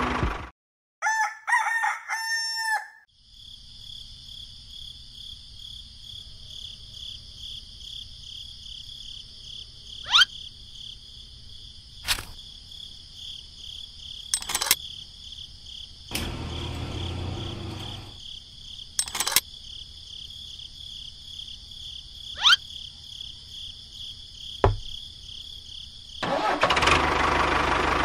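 A rooster crows once, about a second in, after a small engine cuts off. Then comes a steady high-pitched pulsing drone with a few sharp clicks, and the engine starts running again near the end.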